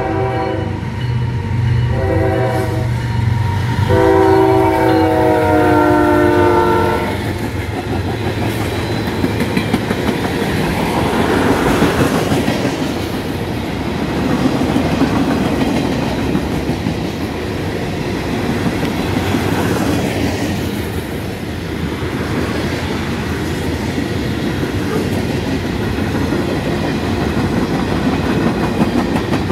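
Freight train's diesel locomotive horn sounding three blasts over the engine's low hum, the last the longest and loudest, about seven seconds in all. Then the train rolls past: a long rumble of freight cars with the clacking of steel wheels on the rails.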